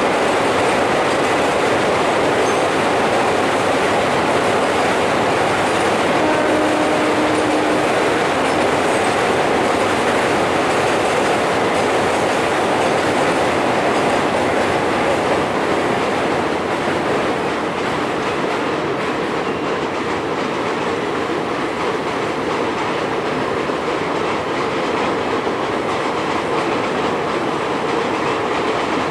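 Train running along the rails: a steady rumble with wheels clattering over rail joints, easing slightly a little past halfway.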